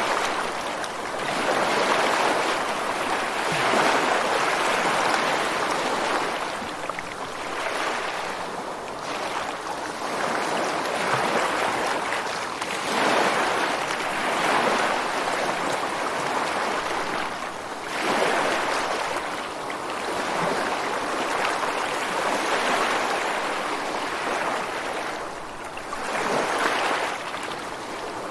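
Ocean surf: waves breaking and washing ashore against rocks, a continuous hiss of water that swells with each wave every few seconds.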